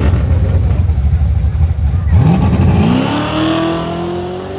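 A car engine runs with a loud, choppy low rumble, then revs up about two seconds in, its pitch climbing and then holding steady.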